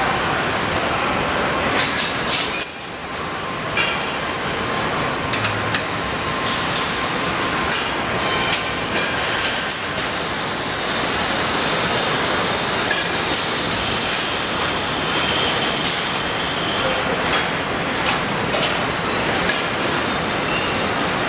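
Truck assembly-plant floor noise: a steady machinery din with a thin high whine, and clanks and knocks scattered throughout.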